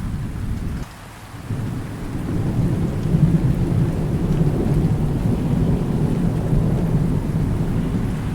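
Thunderstorm: a low rolling rumble of thunder over steady rain. The rumble drops away briefly about a second in, then swells back and stays loud.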